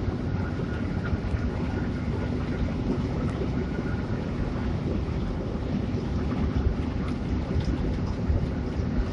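Steady engine and road rumble of a Hino RK8 intercity bus on the move, heard inside the passenger cabin, with a faint steady hum over it.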